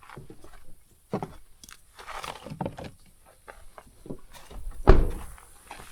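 Rustling and knocking as someone moves about at a car, then a car door shut with one heavy thud near the end.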